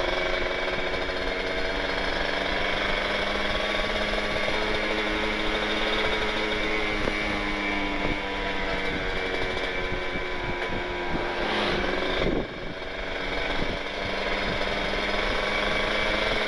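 Kawasaki Ninja 150RR's two-stroke single-cylinder engine running under way through an Aitech carbon kevlar expansion-chamber exhaust. Its note sinks slowly for the first eleven seconds, then sweeps briefly up and drops in level near the twelve-second mark before settling steady again.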